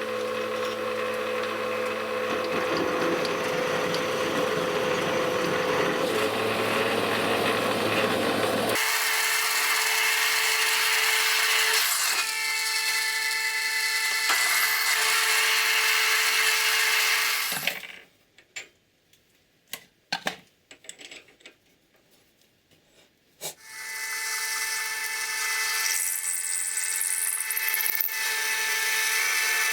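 Electric power tools running in separate cut-together clips: a steady motor hum with cutting or grinding noise over it, changing abruptly about a third of the way in. About two-thirds of the way through it drops to near silence for several seconds with a few light clicks and knocks, then a tool runs again.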